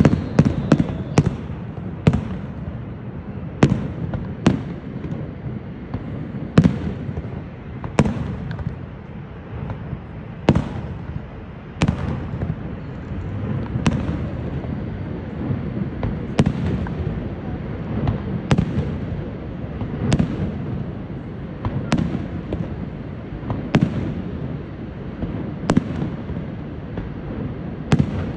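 Fireworks display: aerial shells bursting with sharp bangs every one to two seconds, each trailing off in a brief echo, over a steady low rumble.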